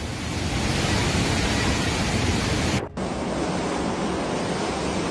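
Steady rushing noise, like strong wind or surging water. It breaks off briefly about three seconds in and carries on slightly quieter.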